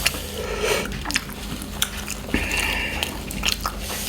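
Soft eating and handling noises: scattered small clicks and mouth sounds, with a brief hiss a little past halfway.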